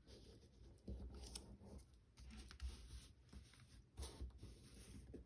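Faint rustling and scraping of brown paper being folded and creased by hand, with a few light taps.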